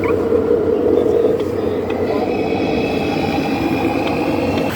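Radio-controlled 1/14-scale truck and earthmoving models running: a steady engine-like drone, with a higher steady whine joining about two seconds in.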